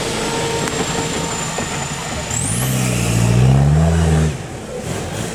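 Off-road competition vehicle's engine revving hard under load. It climbs in pitch to its loudest about three and a half seconds in, then drops off sharply just past four seconds.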